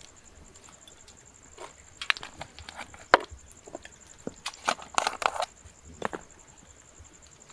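Irregular crunching and sharp cracks, like dry wood or brush being broken or trodden on. They begin about two seconds in and are busiest around the middle. A steady high-pitched pulsing tone runs underneath.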